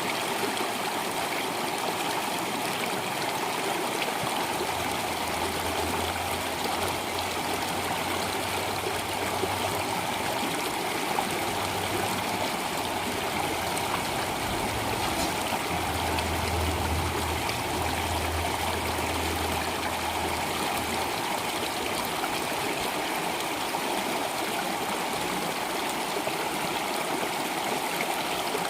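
Stream water flowing steadily, an even rushing wash. A low hum sits under it through the middle of the stretch, from about five seconds in to about twenty.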